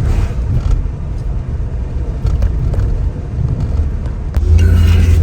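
Steady low cabin drone of a Mercedes R129 SL500 with its V8 engine at highway speed, engine and road noise mixed. Near the end a sharp click sounds, and the rumble then gets louder.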